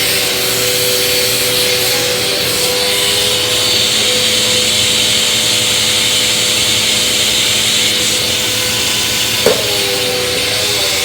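Bissell vacuum cleaner running steadily, a motor whine over a high airflow hiss, with a brief sharp click about nine and a half seconds in.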